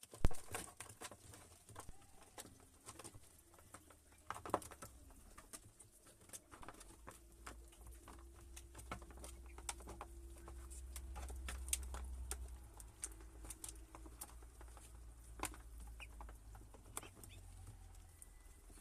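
Birds moving about in their enclosure: scattered light clicks and taps, with one sharper knock right at the start, over a low steady hum.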